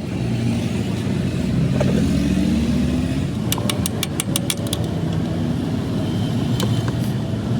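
Tractor engine running, its pitch rising briefly about two seconds in. A quick run of about eight sharp clicks comes near the middle, and a couple more near the end.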